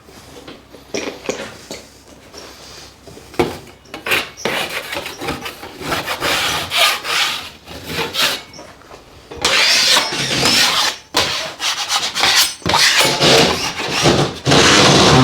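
A blade scraping along the edges of a plasterboard ceiling sheet in irregular rasping strokes, growing louder and more continuous for the last five seconds or so.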